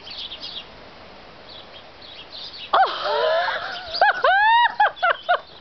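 A large flock of birds calling, faint high chatter at first; about three seconds in, loud high calls that rise and fall in pitch break in several times, one after another.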